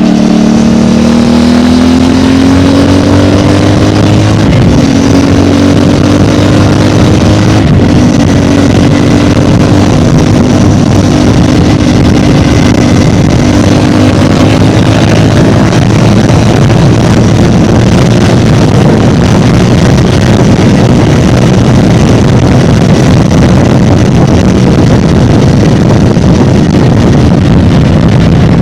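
CFMOTO 450MT's 449 cc parallel-twin engine through its stock exhaust, pulling under way. The note drops at a gear change right at the start, climbs over the next few seconds, then holds a nearly steady cruising pitch with wind rush.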